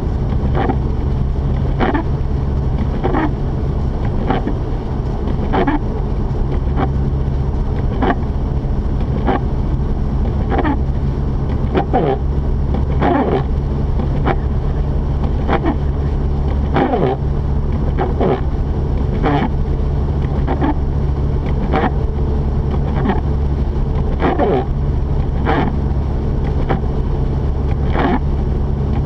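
Mazda RX-8 cabin while driving: the steady low drone of its twin-rotor rotary engine and the road, with a windshield wiper swishing across the glass about once every 1.2 seconds.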